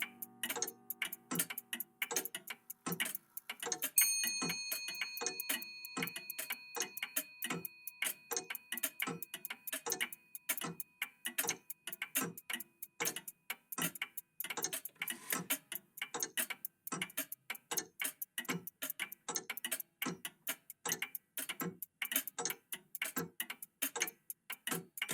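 Several old mechanical clocks ticking at once, their ticks overlapping out of step, a few per second. About four seconds in a single bell-like chime is struck and rings out for several seconds.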